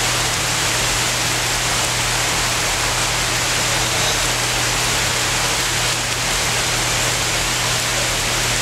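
Heavy rain pouring down, a steady, even rush of water.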